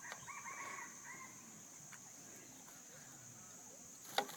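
A small bird chirping faintly in the first second, then one sharp tap near the end as it pecks at its reflection in a mirror.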